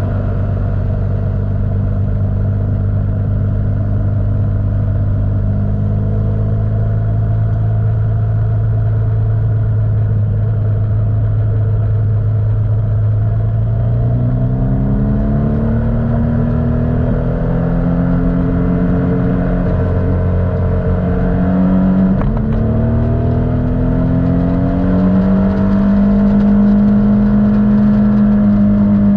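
Motorcycle engine, heard from on board. It runs at a steady low note for the first half, then accelerates: the pitch rises, drops once at a gear change about three-quarters in, rises again, and settles at a higher steady note near the end.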